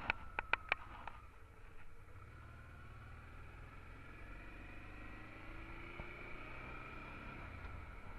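Honda Transalp XL 650's V-twin engine running at steady cruise with road rumble, muffled as heard by an action camera mounted on the motorcycle, with faint whining tones drifting slowly in pitch. Four sharp taps in the first second.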